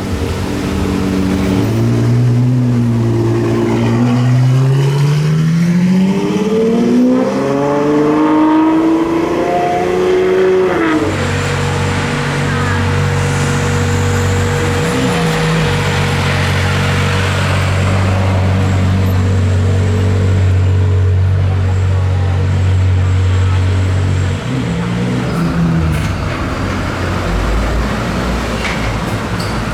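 Supercar engine accelerating hard, its pitch climbing for several seconds before cutting off. A deep, steady engine note follows.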